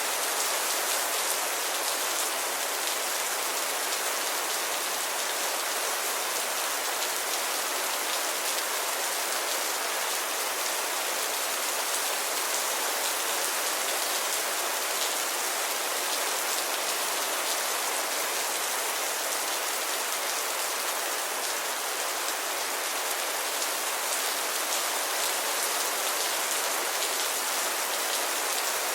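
Steady rainfall, a dense even hiss of drops pattering on a surface, with no thunder.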